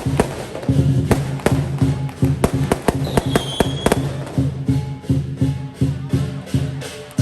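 Lion dance percussion: a large Chinese drum beating a fast, steady rhythm under repeated clashing cymbals. A brief high whistling tone rises and falls about three seconds in.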